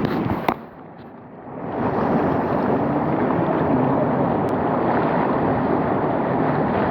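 Floodwater rushing down a wadi in a flash flood after heavy rain: a steady, loud rush of water that swells up about two seconds in. A few sharp knocks at the very start.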